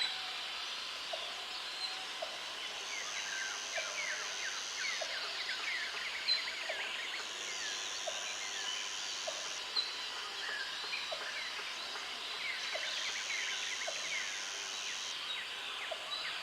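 A flock of birds chattering with many overlapping quick chirps. A short lower note repeats about once a second, and a high steady buzz comes and goes in spells of about two seconds.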